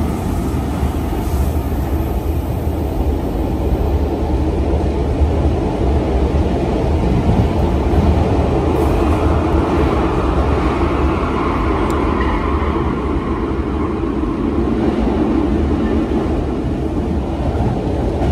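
Cabin noise of a double-deck RER A commuter train under way: a steady rumble and rush of wheels on rail, growing a little louder about halfway through.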